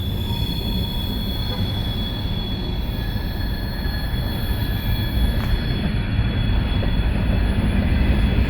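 Train rolling past on the rails: a steady low rumble of the wheels, with thin, high wheel squeal held over it.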